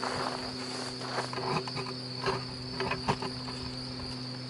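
Steady insect buzzing and chirring around an open beehive full of swarming honeybees, with a few light knocks as the hive boxes and frames are handled.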